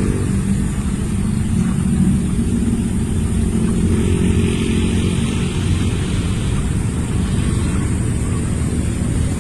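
A motor vehicle engine running steadily at low revs, with no clear rise or fall in pitch.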